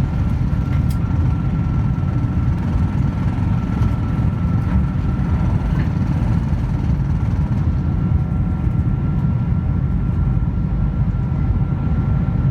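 Boeing 747-400 cabin noise: a steady, loud low rumble of engines and airflow heard from inside the cabin, with a faint steady whine above it.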